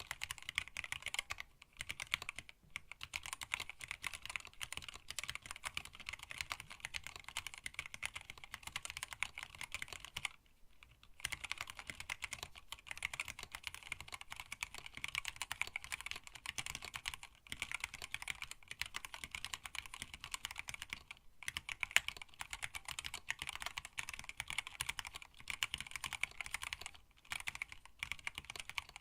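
Steady fast typing on a hand-wired split mechanical keyboard with Tealios linear switches, blank PBT keycaps and an acrylic case, a dense run of keystrokes broken by short pauses, the longest just under a second about ten seconds in.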